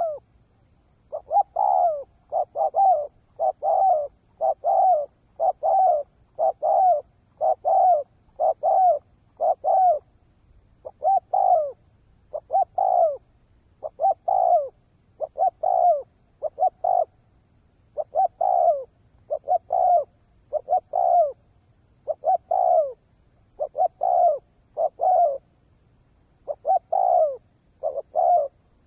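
Spotted dove calling in a fast, steady run of short coos, each falling in pitch, about one and a half a second, broken now and then by short pauses. This is the brisk 'tốc độ' style of a decoy dove used to draw in wild doves.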